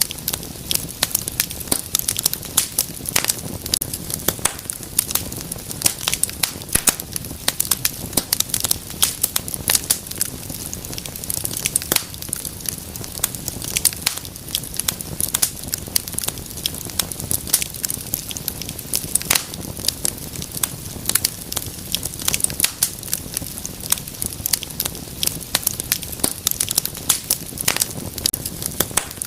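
Wood fire crackling and popping over a steady low rumble, with frequent sharp irregular snaps.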